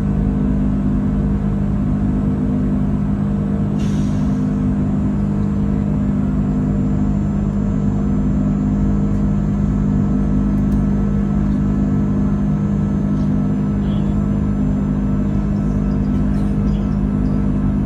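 Steady drone of an Airbus A330's jet engines and airflow heard inside the cabin, a deep hum with a faint beat about once a second. A brief faint rattle about four seconds in.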